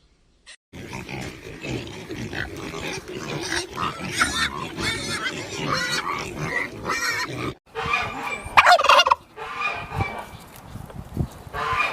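Domestic fowl calling in a flock, many overlapping calls in a dense chatter. It breaks off briefly about two-thirds of the way through, then a few louder single calls follow.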